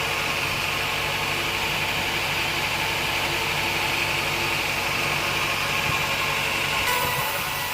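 Sawmill machinery running steadily: an engine hum under a continuous hiss, which changes slightly near the end.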